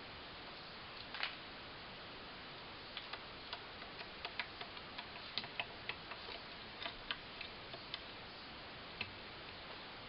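Irregular sharp clicks and taps over a steady hiss: one louder click about a second in, then a loose run of a dozen or more from about three seconds in to near the end.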